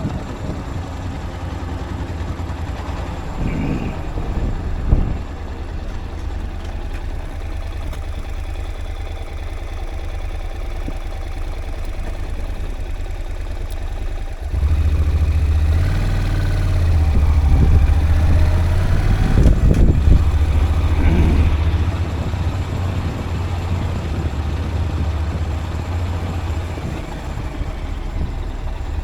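Vehicle travelling along a forest road: a steady low engine and road rumble that grows louder about halfway through.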